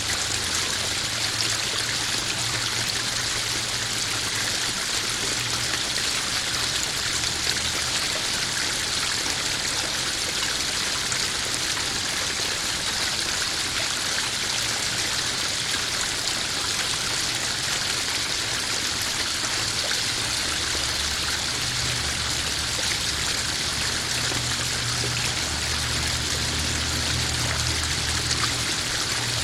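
Small garden waterfall splashing and trickling steadily into a koi pond. A faint low hum comes and goes underneath.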